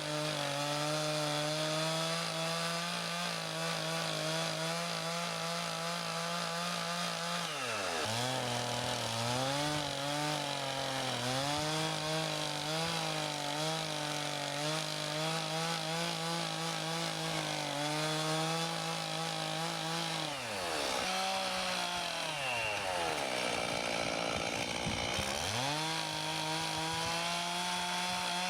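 Two-stroke chainsaw mounted on an Alaskan chainsaw mill, running at high speed as it rip-cuts through a large maple log. Its pitch drops sharply and comes back up three times: about 8 seconds in, around 20 seconds and around 25 seconds.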